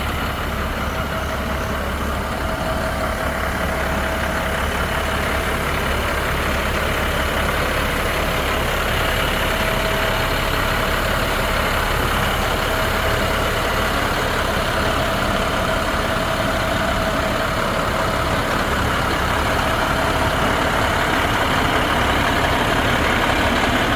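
International 7400 dump truck's diesel engine idling steadily while the dump bed lowers, with a steady thin whine and a hiss from the hydraulics over the engine hum, growing slightly louder toward the end.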